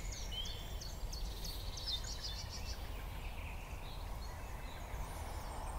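Woodland ambience: a small bird gives a series of faint, quick, high chirps that trails off about three seconds in, over a steady low background rumble.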